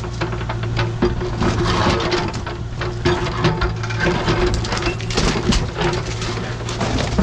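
Diesel engine of a piece of construction machinery running steadily, with frequent irregular clanks and knocks from dirt and stone being worked.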